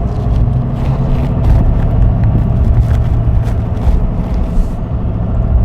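Chevy pickup truck driving, heard from inside the cab: a steady low engine and road rumble, with a spatter of short crackles and hisses that stops about five seconds in.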